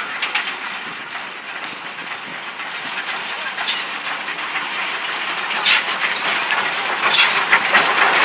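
Passenger train behind a Thomas the Tank Engine locomotive approaching on the track, its running noise growing louder as it nears, with a few short, sharp hisses.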